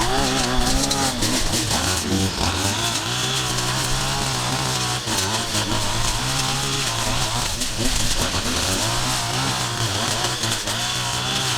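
Small petrol engines of yard-clearing power tools running without a break, their pitch rising and falling as they rev.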